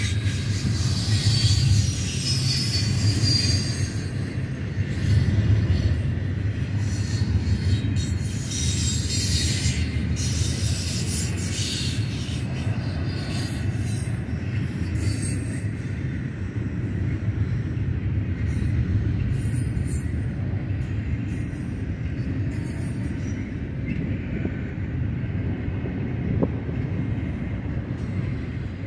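A loaded freight train's double-stack container cars and empty tank cars rolling past close by in a steady rumble. Wheels squeal and screech on and off, mostly in the first half, then die away to the plain rolling rumble.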